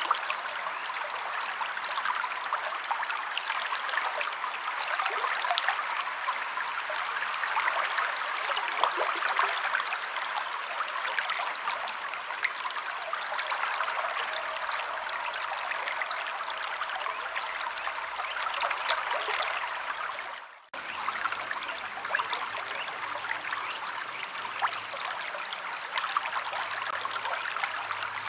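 River water flowing over stones in a steady babbling rush, with a few faint bird chirps high above it. About twenty seconds in, the sound dips out briefly and comes straight back.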